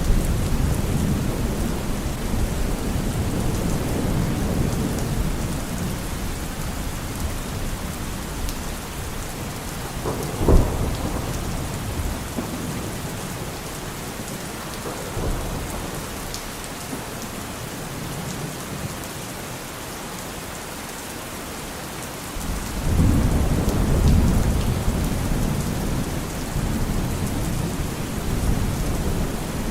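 Steady rain with rolling thunder: one low rumble fades away over the first several seconds, a sharp crack comes about a third of the way in, and a new, louder rumble starts about two-thirds of the way through.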